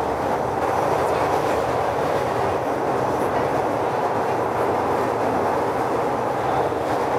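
Subway train running, a steady even noise of the car in motion heard from inside the carriage.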